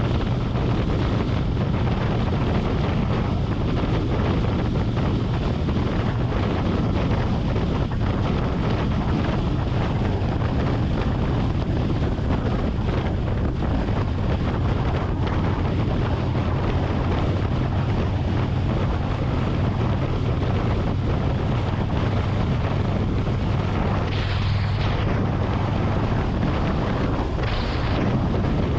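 Harley-Davidson Road Glide's V-twin engine running steadily at highway cruising speed, heard with wind rushing over the helmet or bike-mounted camera microphone. Near the end there are two brief whooshes.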